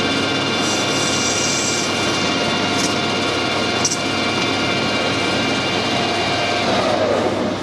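Metal lathe running with a steady multi-tone whine while a brass part is turned down, with a couple of brief ticks a few seconds in; near the end its whine falls in pitch as the machine slows.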